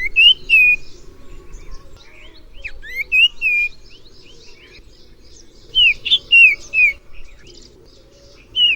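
Common iora calling: short phrases of three or four clear whistled notes, repeated four times about every three seconds. Fainter chirps of other birds sound between the phrases.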